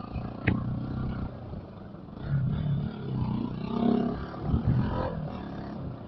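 Bajaj Pulsar NS200's single-cylinder engine being revved in several short surges through its modified exhaust, with one sharp pop about half a second in.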